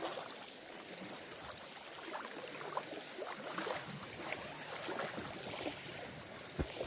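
Light water splashing and lapping, with small irregular splashes over a steady hiss, as from water at a kayak's hull or paddle.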